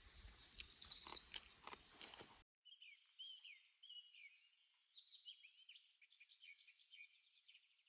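Chewing and crunching with a few sharp clicks, cut off suddenly about two and a half seconds in. After the cut come faint birds chirping in short repeated phrases.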